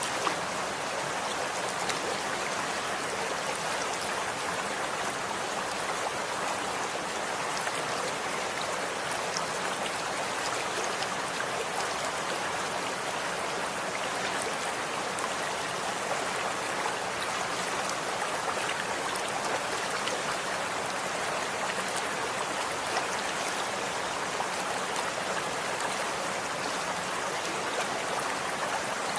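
A stream of running water flowing and splashing in a steady, even rush, with small drops ticking through it.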